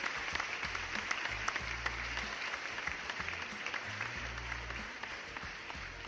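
Applause sound effect: a crowd clapping, a dense, steady patter of many hands that tapers slightly near the end. Soft background music with a low bass line plays underneath.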